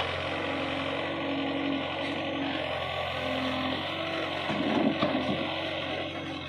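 Diesel engine of heavy farm or construction machinery running steadily, growing briefly louder and rougher about five seconds in.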